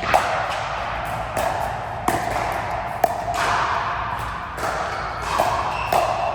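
A rally of sharp ball-and-racket hits in an indoor court, about one hit a second, each with a short ringing echo.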